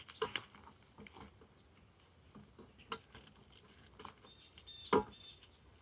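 Scattered scrapes and clicks of a sugar-syrup feeder can being worked loose from a bee package box, with a sharper knock about five seconds in.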